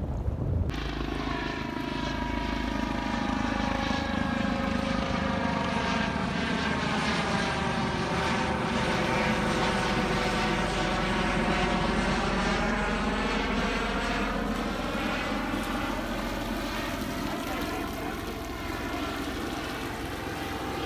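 Aircraft flying over: a steady engine drone that sets in about a second in, its pitch pattern sinking and then rising again as it passes, loudest about two-thirds of the way through.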